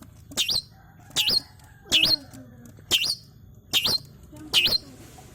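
Long-tailed shrike (cendet) giving a repeated sharp call, six short hooked notes about one every 0.8 s. It is a young bird still learning its song.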